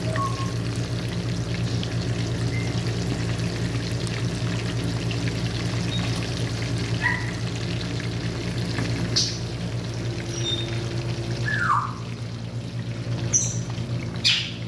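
A parrot gives several short calls: quick rising chirps, and a falling whistle a few seconds before the end. These come over a steady hiss and low hum.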